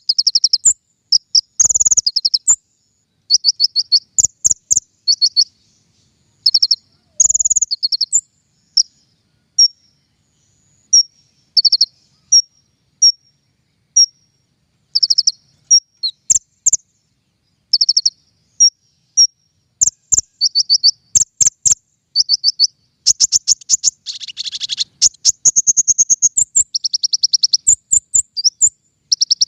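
Songbird sold as 'king konin' singing in short bursts of rapid, high repeated notes with brief pauses between phrases, a recording used as masteran to train or lure birds.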